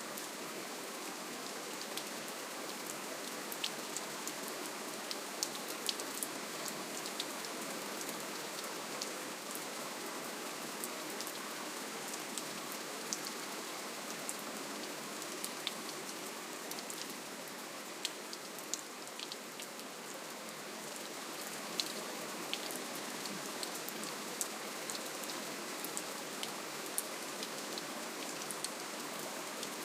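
Steady, gentle rainfall: a constant hiss of rain with scattered sharp ticks of individual drops hitting a surface.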